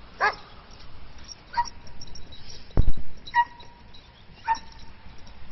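A dog whining in short, high-pitched whimpers, about four of them spread a second or so apart. A loud low thump comes about three seconds in.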